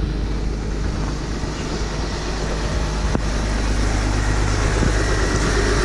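2010 Mercedes GL350 BlueTec's 3.0-litre V6 turbodiesel idling steadily just after a cold start in extreme cold.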